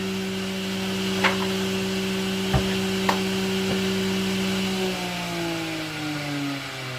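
Electric power tool running free after a cut, with a steady hum and a few light knocks against the wood. About five seconds in it is switched off and winds down, its pitch falling slowly.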